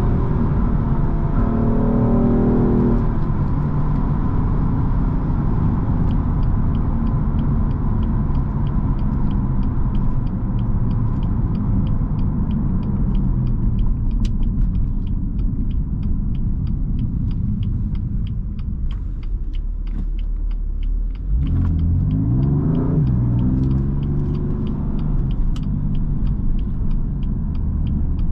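BMW M4 Competition's 3.0-litre twin-turbo inline-six heard from the driver's seat while driving, with a low road rumble. Revs rise in the first few seconds and then settle into a steady cruise; about two-thirds of the way in the sound dips briefly and the engine revs climb again under acceleration. A faint regular ticking runs at about two ticks a second through most of it.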